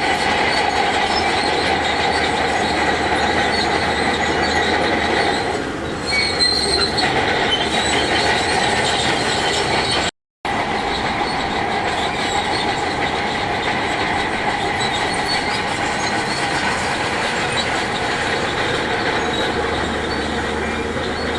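Heavy earthmoving machinery working, a continuous mechanical rumble with high metallic squealing. A steady high tone in it stops about five and a half seconds in, and the sound cuts out for an instant near the middle.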